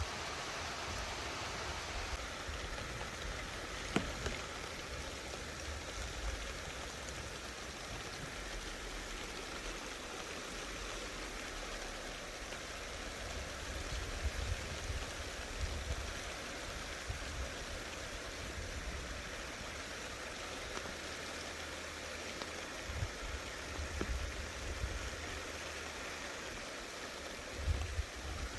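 Steady rain falling in a thunderstorm, with low rumbles coming and going and a sharp tick about four seconds in.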